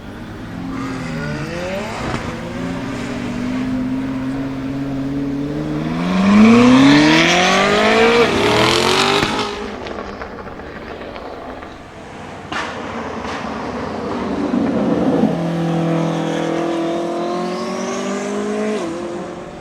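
Koenigsegg Jesko Attack's 5.0-litre twin-turbo flat-plane-crank V8 under hard acceleration, the revs climbing steeply to a loud peak and then falling away. A single sharp crack follows, then the engine pulls again with a high rising whine near the end.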